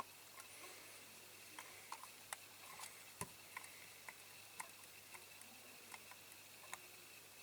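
Faint, irregular small clicks and ticks of a small screwdriver turning a screw into a diecast toy van's base plate, with one slightly louder click about three seconds in.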